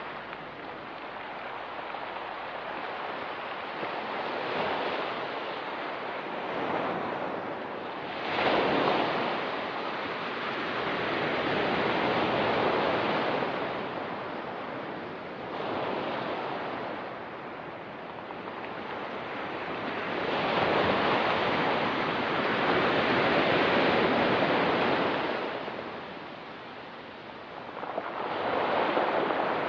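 Ocean surf on a pebble beach: waves breaking and washing over the stones in slow surges every few seconds. There is a sharp break about eight seconds in, and the longest, loudest wash comes around two-thirds of the way through.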